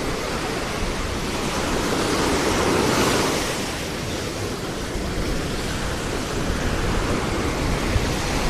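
Ocean waves breaking and washing up on a beach, a steady surf noise that swells about three seconds in, with wind buffeting the microphone.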